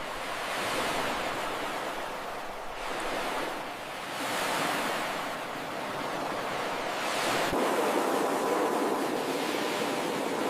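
Ocean surf breaking on a beach: waves wash in one after another as swelling rushes of noise, with a larger, longer wash building about seven seconds in.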